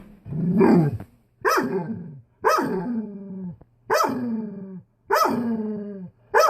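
Dog barking in a run of six drawn-out barks about a second apart, each falling in pitch, at the furnace floor vent it is afraid of.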